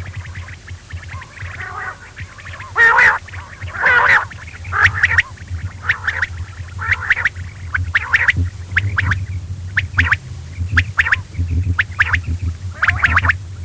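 Quail calling over and over: a busy run of short, sharp calls, several a second, over a steady low hum.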